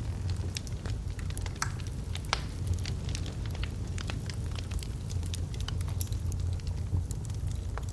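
Wood logs burning in a fireplace, crackling with frequent irregular small pops and snaps over a steady low rumble of the flames.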